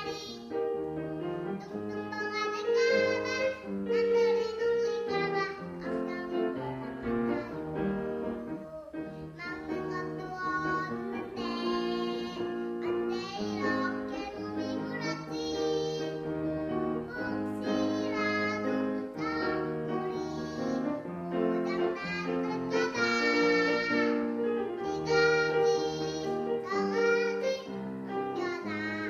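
A young child singing a children's song (dongyo) over an instrumental accompaniment.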